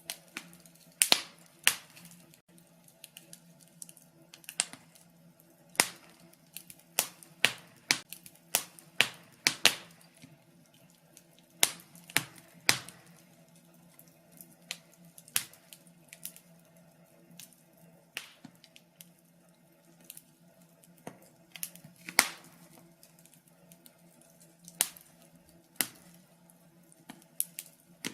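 Wood fire crackling: irregular sharp pops and snaps from burning logs, some much louder than others, coming in uneven clusters over a faint steady hum.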